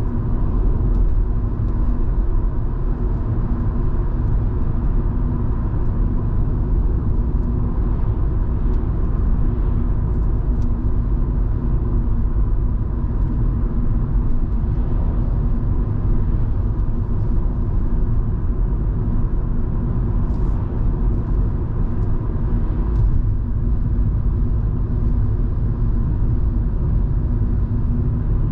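Volvo V70 2.5T's turbocharged five-cylinder petrol engine and road noise while cruising: a steady low rumble with a constant engine hum.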